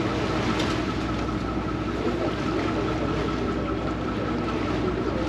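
Vaporetto water bus under way, its diesel engine running with a steady drone over a constant wash of noise.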